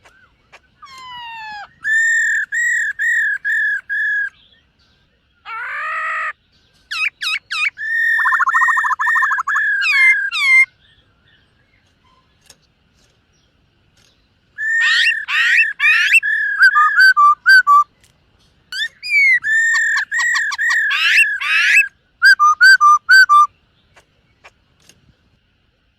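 Black-throated laughingthrush (khướu bạc má) singing loud, clear whistled phrases of quickly repeated notes, some sliding up or down, in four bouts separated by short pauses.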